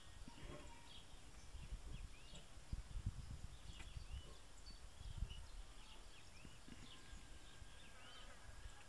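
Faint outdoor ambience with small birds chirping in the background: many short, high, arched chirps at irregular intervals. Irregular low thumps run underneath, and a thin steady high tone comes in near the end.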